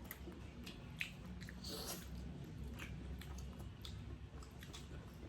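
Close-up chewing and biting of food, with scattered soft mouth clicks and smacks and a brief rustle about two seconds in.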